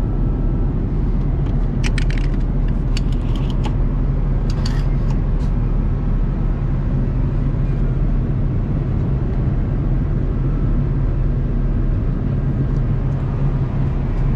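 Steady low rumble inside the cabin of an Airbus A330-200 airliner, the drone of engines and airflow, with a few short rattles and knocks from about two to five seconds in.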